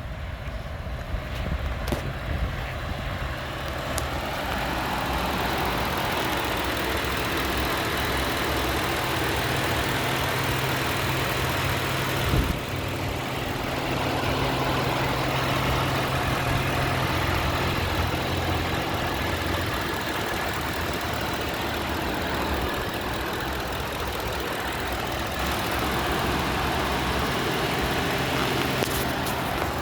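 2010 Ford F-150's V8 engine idling steadily, with a single sharp click about twelve seconds in.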